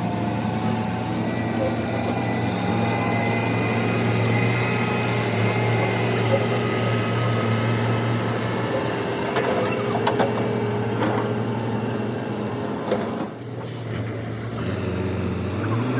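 A heavy truck's diesel engine running steadily, with a few sharp clicks about two-thirds of the way in. Near the end the engine note sags briefly, then picks back up.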